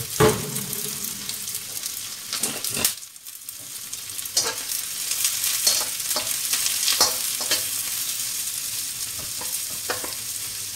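Chopped onions and garlic sizzling in hot oil in a wok, stirred with a utensil that scrapes and clicks against the pan. Two sharp knocks at the very start, and the sizzle dips briefly about three seconds in.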